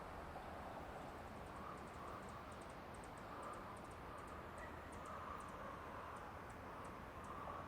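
Forest ambience: a steady soft hiss with faint short calls, and from about a second in a run of quick, very high-pitched ticks, several a second and irregularly spaced.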